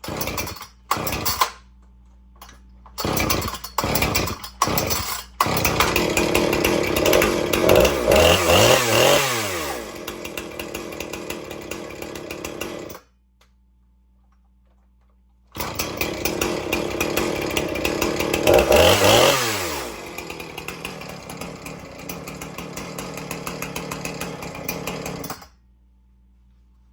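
Husqvarna 455 Rancher two-stroke chainsaw sputtering in several short bursts, then catching and running. It is revved up, drops back to idle and stops suddenly, then runs again, revs and idles before cutting off near the end. The owner puts its rough starting down to a spark plug wetted by over-priming the primer bulb.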